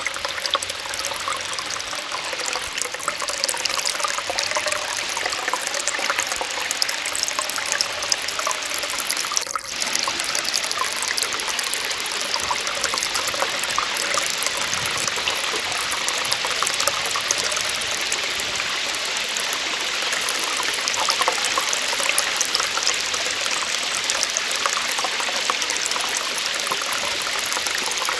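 Small waterfall splashing steadily, with a brief dip in the sound about ten seconds in.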